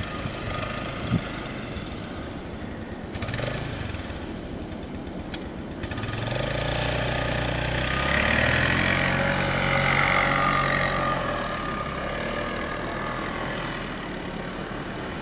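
Blizzard wind blowing steadily. From about six seconds in, a motor vehicle's engine comes by, growing louder, then fades away again after about twelve seconds.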